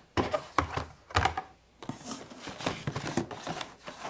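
Packaged diecast toy cars being handled and set down: a run of sharp plastic clicks and knocks, the loudest in the first second and a half, followed by quicker, lighter clicking and rustling.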